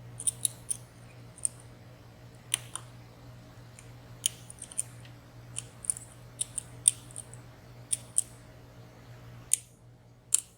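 Irregular small metallic clicks and ticks of lock picks working the sliders and pins inside a WSW W10 high-security padlock, over a faint steady hum.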